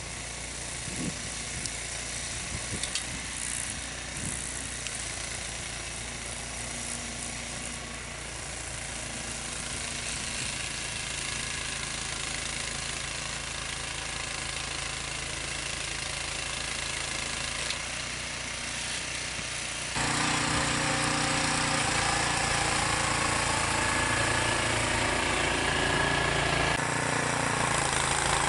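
Small gasoline engine of snow-clearing equipment running steadily. About two-thirds of the way through, the sound jumps suddenly louder and brighter.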